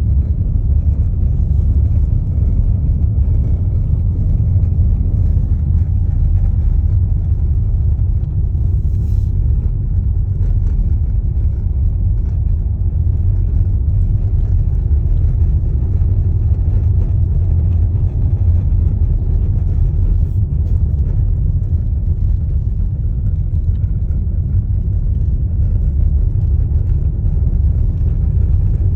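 Steady low rumble of road and tyre noise from a TOGG T10X electric SUV on the move, with no engine note.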